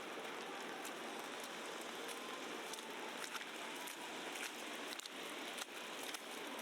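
Street ambience in heavy wet snowfall: a steady hiss with many scattered light ticks.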